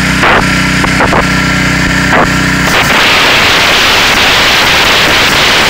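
High-pressure washer at work: a steady motor or pump hum with a loud spray hiss, broken by a few short interruptions, giving way about three seconds in to a broad, even hiss of the water jet.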